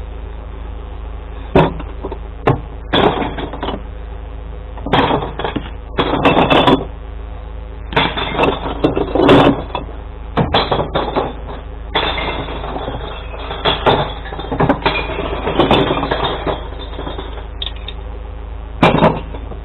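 Glass bottles and jars being tipped into a glass recycling truck's compartments, crashing and clinking in many irregular bursts, over the truck's engine idling.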